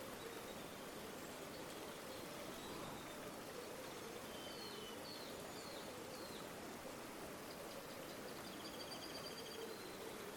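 River water flowing steadily, with a low burbling. Small birds call over it: a few short chirps near the middle and a quick trill near the end.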